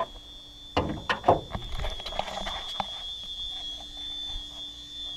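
A pickup truck's hood being opened: a few sharp clicks and clunks of the release and latch about a second in, and another click near three seconds in as the hood is raised.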